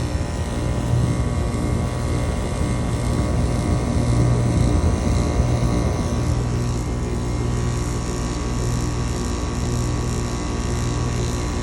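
2007 Carrier base-model central air conditioner condensing unit running: a steady low compressor hum under the whoosh of its condenser fan.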